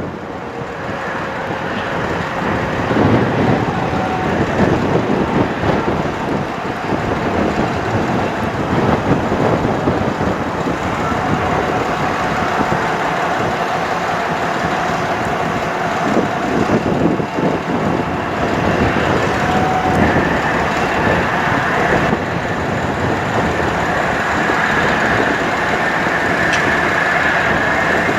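Bucket truck's diesel engine running steadily, with a faint whine that comes in during the second half.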